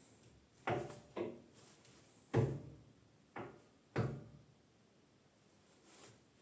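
Five sharp knocks or clunks, irregularly spaced, each with a short ring.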